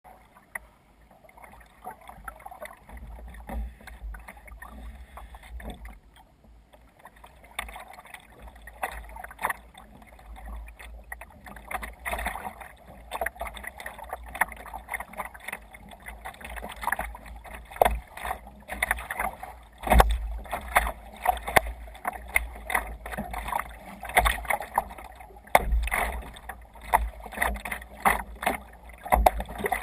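Water splashing and slapping against a kayak's hull as it moves through choppy sea, in irregular bursts that grow louder and more frequent from about the middle on, with wind rumbling on the microphone.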